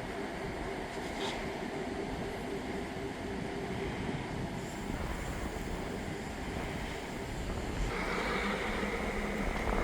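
EMD Geep diesel locomotives working in a rail yard at a distance: a steady engine drone mixed with wind on the microphone. A higher hiss comes in about eight seconds in.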